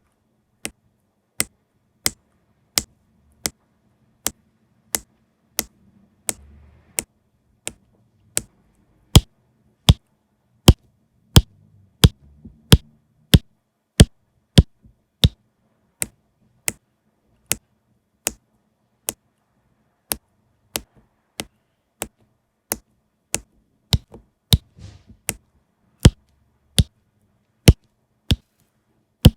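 Sharp, evenly paced taps, about one every 0.7 seconds and varying in strength: a diamond-painting pen pressing diamonds onto the canvas one by one.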